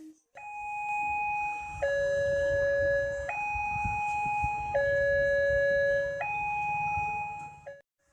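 Railway level-crossing warning alarm sounding its two-tone chime, switching between a higher and a lower tone about every one and a half seconds, over a low rumble.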